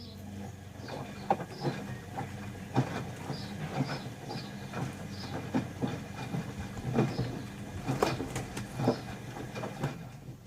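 Bauknecht WA 1460 front-loading washing machine turning its drum during the wash: a steady motor hum with irregular knocks and clatter from the tumbling wet laundry. It runs as one turn of about ten seconds, then stops.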